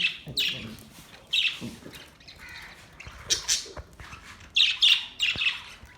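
Budgerigars chattering, with bursts of short harsh squawks and chirps and softer warbling between them.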